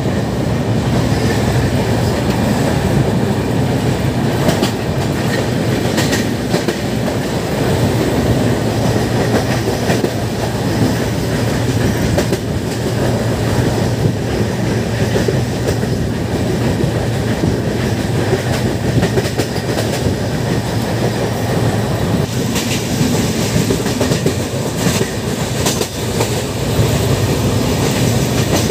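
Indian Railways express coach running at speed, heard at its open doorway: a steady rumble of wheels on rails, with a click now and then as the wheels cross rail joints.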